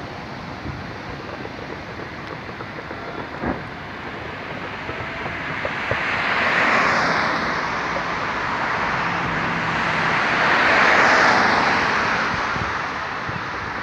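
Road traffic: a steady rush of vehicle noise, with two vehicles passing close by, each swelling and then fading. A single short knock comes early on.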